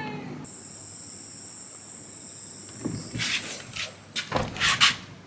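A steady, high-pitched insect trill, then from about three seconds in a run of scuffing and rustling noises, the loudest near the end.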